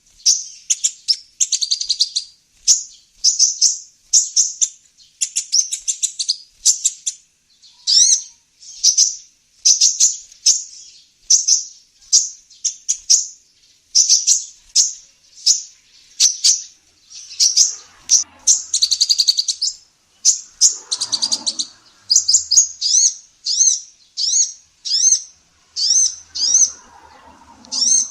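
Female kolibri ninja sunbird calling in a fast, unbroken run of short, high-pitched chirps, about two a second.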